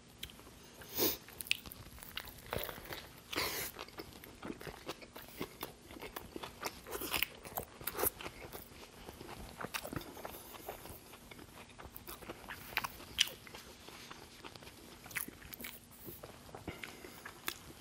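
Close-miked chewing of a big mouthful of a Burger King Double Whopper: wet mouth sounds with irregular small crunches and smacks.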